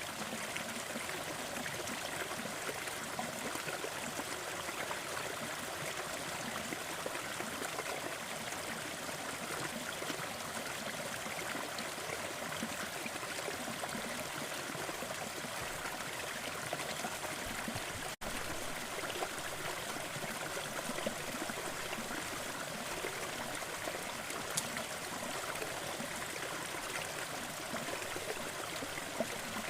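Small forest waterfall splashing and trickling in a steady, even rush, with a split-second dropout about eighteen seconds in.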